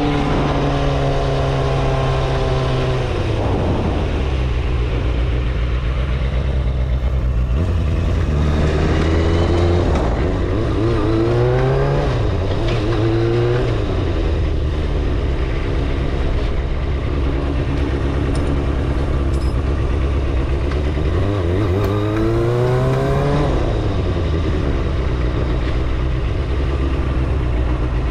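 Kawasaki ZXR250 four-cylinder motorcycle engine running under way. Its pitch falls over the first few seconds, rises in short revving sweeps around the middle and again near the end, then settles into a steady note.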